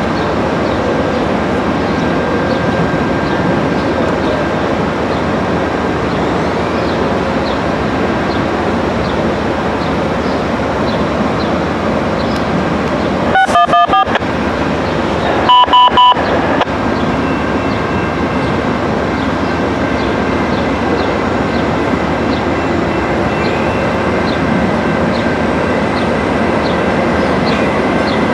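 Steady rumbling of a passenger train slowly approaching a station platform, with two short, choppy horn sounds about halfway through.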